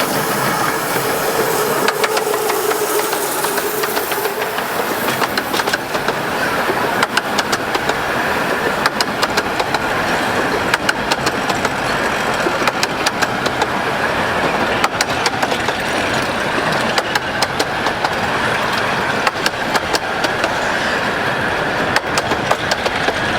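Romney, Hythe and Dymchurch Railway miniature train running: a steady rumble with a rapid clatter of clicks, and a faint tone that fades out in the first few seconds.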